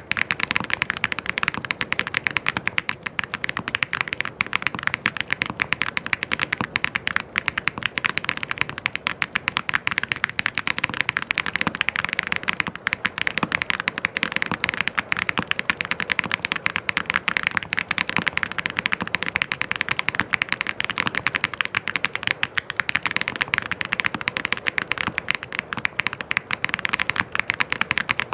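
Fast, continuous typing on a mechanical keyboard: a dense, steady stream of key clicks with no pauses.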